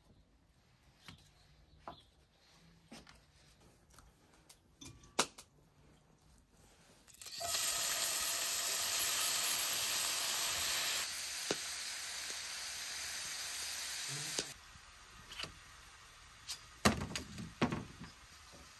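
Food sizzling in hot fat in a pan, starting suddenly about seven seconds in, easing slightly partway and cutting off about seven seconds later. Light taps and a few knocks before and after.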